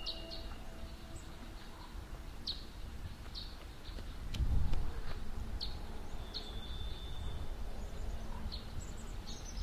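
Woodland ambience: small birds giving short high chirps about once a second, with one longer whistled note a little past halfway, over a steady low rumble that swells briefly about halfway through.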